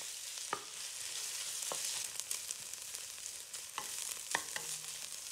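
Ground pork sizzling in oil in a wok as it browns, with a steady hiss. A wooden spatula stirring it scrapes and taps against the pan now and then.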